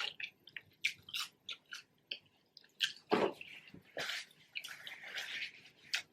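Close-miked chewing of a bite of fried apple pie: irregular wet crackles and crunchy mouth clicks.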